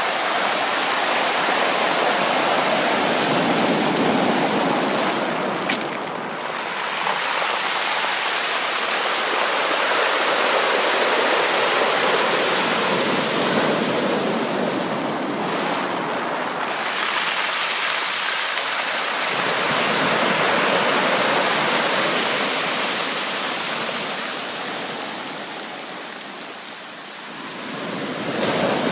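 Ocean waves breaking and washing up a beach, a continuous surf noise that swells and eases in slow surges every several seconds.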